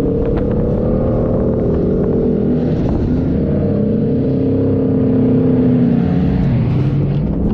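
4x4 vehicle engine running under load while driving, its pitch drifting slowly up and down and dropping near the end, with a few light knocks.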